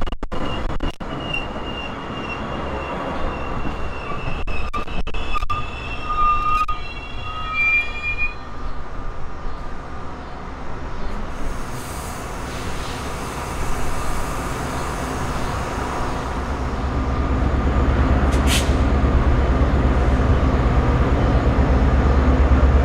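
Metra stainless-steel bilevel passenger cars rolling past at close range, with steady wheel-on-rail noise. Thin high wheel squeals come and go in the first several seconds, and the low rumble grows louder toward the end.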